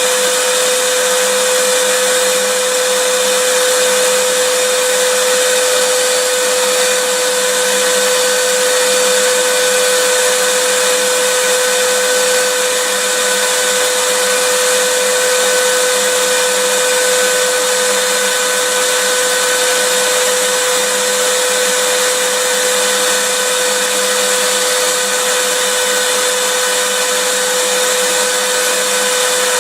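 Vacuum cleaner running steadily: an even rushing noise with a constant mid-pitched whine, holding the same pitch and loudness throughout.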